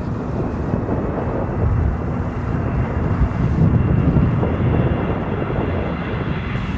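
Jet airliner's engines on landing approach: a steady low rumble with a faint high whine, mixed with gusty wind buffeting the microphone.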